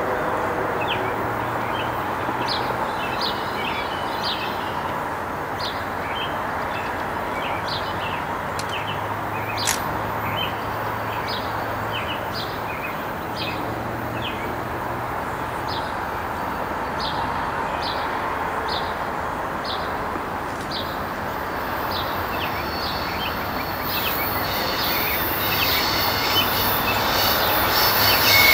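A train rolling past on the rails: a steady rumble of wheels on track, with scattered short high chirps over it. It grows louder with a rising high hiss near the end.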